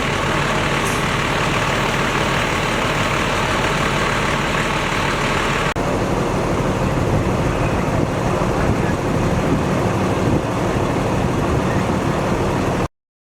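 Fire engine's diesel engine idling steadily at the scene. The sound shifts abruptly about six seconds in and cuts off just before the end.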